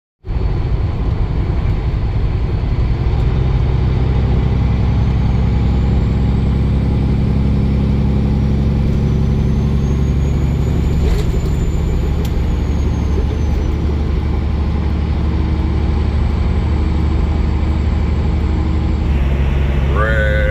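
Semi truck driving, with a steady low engine rumble and road noise. A steady higher-pitched hum joins near the end.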